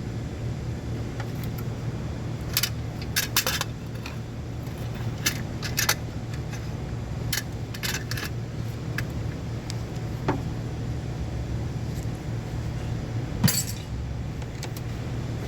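Metal hand tools and parts clinking and clicking in scattered short knocks over a steady low hum, with the loudest clink near the end.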